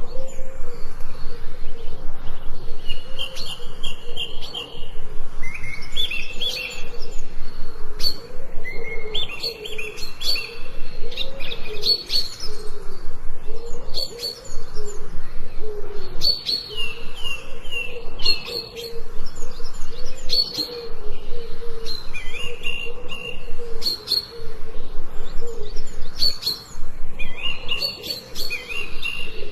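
Forest birds singing: repeated short, quick chirping phrases every few seconds over a steady lower warble.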